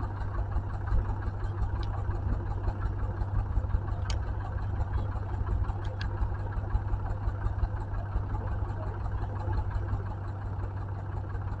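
Pulling tractor's engine idling steadily, with a few faint ticks.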